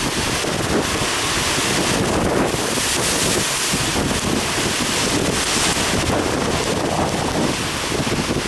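Typhoon wind buffeting the microphone over heavy ocean swell and surf breaking against the harbour, with the hiss swelling a couple of times.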